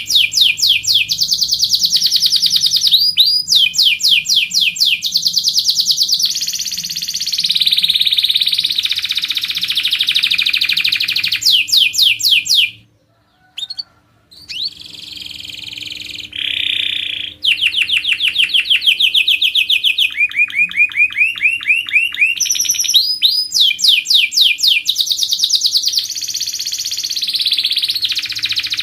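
Domestic canary singing: fast trills of repeated notes, one run after another, with a short pause about halfway through.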